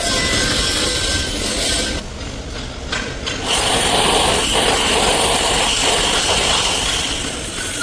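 Workshop tool working material with a continuous rasping, grinding sound. It drops back about two seconds in and picks up again about a second and a half later, steady and hissing.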